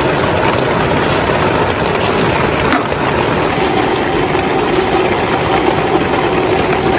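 Heavy rain falling steadily, a dense continuous hiss, with a faint hum underneath.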